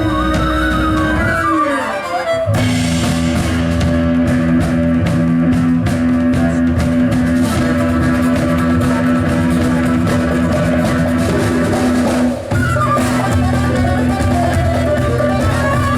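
Live band music: a falling melodic run, then drums and a steady bass line come in about two and a half seconds in, with a brief break near twelve seconds before the band plays on.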